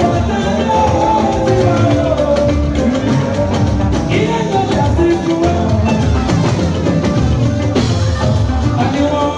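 Church choir singing with a band, a drum kit keeping a steady beat.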